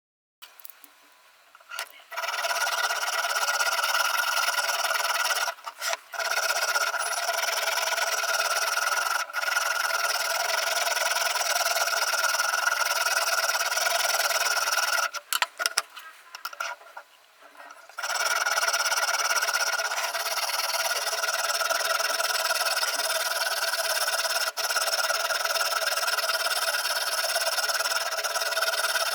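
A sharpening stone on a guided-rod knife sharpener rubbing steadily back and forth along a steel kitchen-knife edge. It pauses briefly a few seconds in and again for a few seconds around the middle.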